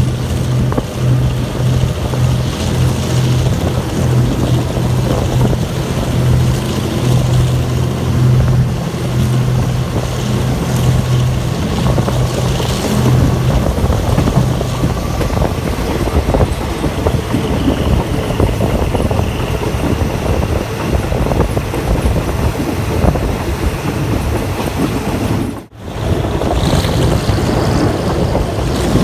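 Steady rumble and wind noise of a moving diesel-hauled passenger train, with a low engine drone through roughly the first half. The sound drops out for a moment about three-quarters of the way through.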